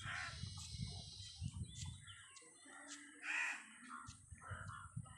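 Several separate bird calls outdoors, the loudest a little over three seconds in, over a low rumble on the microphone during the first two seconds.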